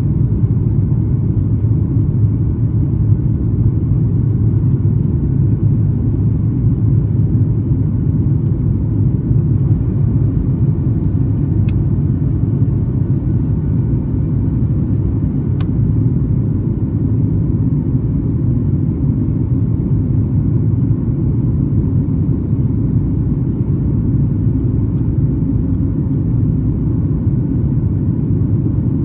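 Steady low rumble inside the cabin of a Boeing 737 MAX 8 in flight after takeoff: the airflow over the fuselage and its CFM LEAP-1B turbofan engines, even and unchanging.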